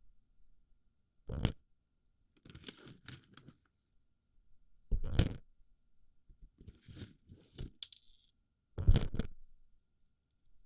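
Plastic BB pellets pressed and rattled into a microphone's ear, close up, in short crunchy scraping bursts with pauses between. The loudest bursts come about five and nine seconds in.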